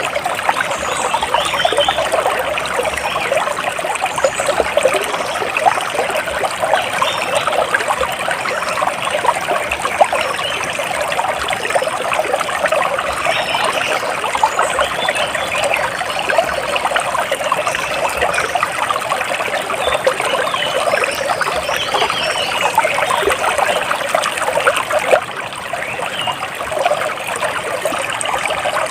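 Water trickling and splashing in a steady, continuous babble, with faint high bird chirps now and then.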